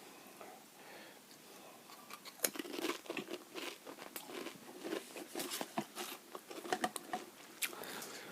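Someone biting and chewing Pringles crisps close to the microphone. About two seconds in, a quick run of sharp crunches starts and keeps going.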